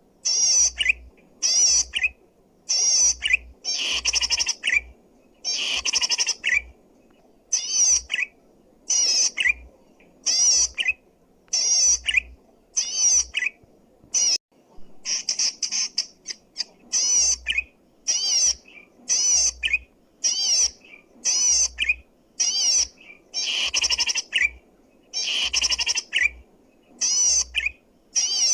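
Zitting cisticola (cici padi) calling loudly and persistently: short bursts of rapid, buzzy chattering notes, repeated roughly once a second with brief pauses between.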